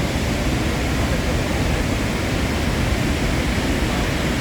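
Niagara Falls' water pouring down: a loud, steady rushing noise, heaviest in the low range, with no breaks or changes.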